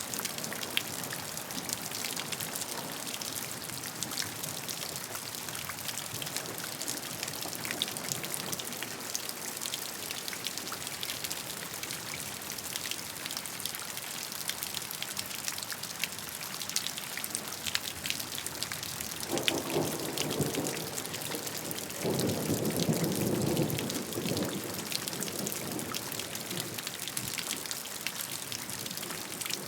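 Steady rain, with many close individual raindrops hitting a surface throughout. About two-thirds of the way through, a louder, lower rushing sound comes twice, each time for a second or two.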